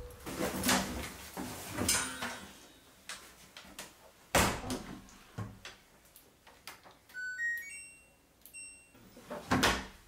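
Household knocks and bumps of things being handled, with a sharp knock about four seconds in and another near the end, and a short run of brief high chirping tones about seven seconds in.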